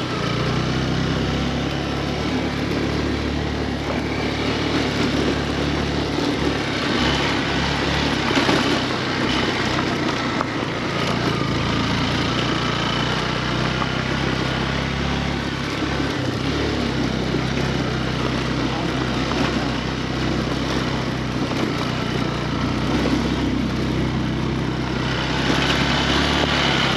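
Motorcycle engine running steadily while under way, with a constant rush of wind and road noise.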